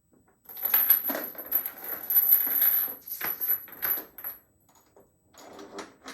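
Zinc-plated chain rattling and jingling as its links are handled and swung, a dense run of metal clinks lasting about four seconds, followed by a few lighter clinks near the end.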